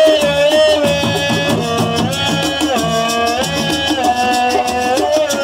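Assiko band music: a sustained melody line stepping between held notes over steady drums and a fast, even shaker rhythm.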